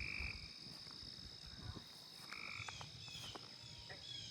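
Frogs calling faintly in short, flat croaks, one at the start and another about two seconds in, over a steady high-pitched insect drone. Small falling bird chirps come in the second half.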